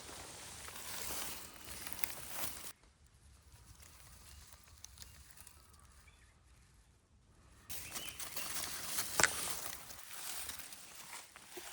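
Footsteps and rustling through dry leaves and undergrowth in woodland, with a much quieter stretch in the middle and one sharp snap about nine seconds in.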